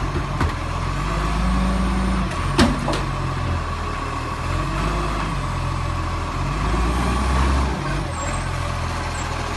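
Garbage truck's engine and hydraulics working, the engine note stepping up and down under load, with a thin steady whine. A sharp metallic clank about two and a half seconds in.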